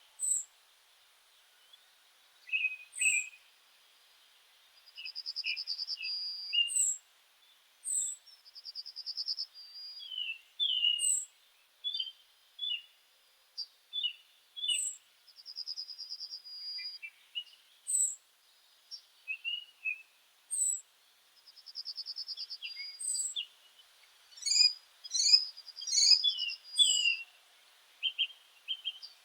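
Several songbirds singing together: short high slurred notes repeating every second or two, a buzzy trill about a second long heard four times, and scattered lower chirps, with a burst of overlapping calls near the end.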